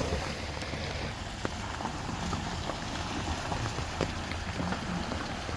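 Steady rain falling, with scattered drops tapping.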